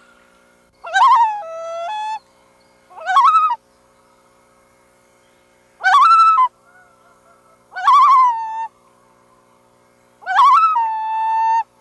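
Loons calling: five separate quavering calls, each with a wavering start, two of them ending in a held lower note.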